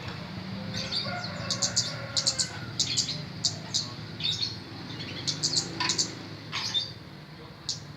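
A small bird, called kemade in Indonesian, chirping in short, sharp, high chirps, often several in quick succession, over a faint steady low hum.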